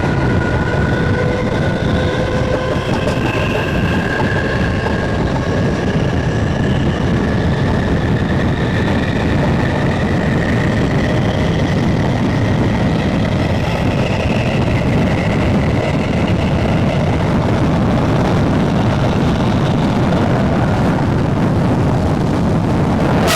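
SNCB AM80 electric multiple unit running along the line: its traction motors whine, rising slowly in pitch as the train gathers speed, then fading into the steady low rumble of the ride.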